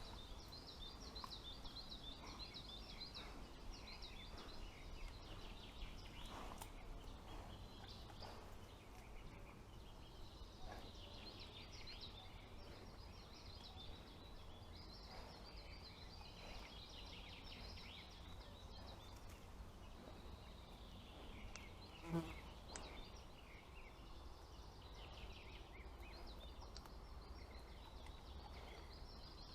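Faint forest ambience of small birds singing high chirps and trills throughout, over a steady low hum. One short, louder low sound about two-thirds of the way through.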